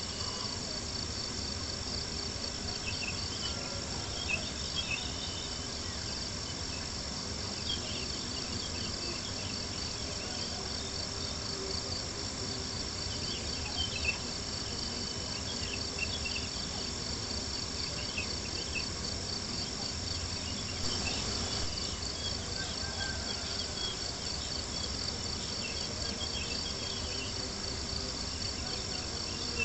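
Crickets chirping in a steady, rapidly pulsing high trill over an even low hiss, with a few faint sharp pops from a crackling campfire.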